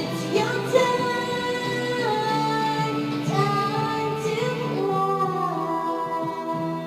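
A female voice singing a pop song over backing music, holding long notes.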